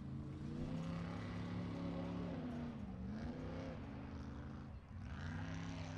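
Mud truck's small-block Ford V8 revving hard. The pitch holds high, dips about halfway through, then climbs again near the end.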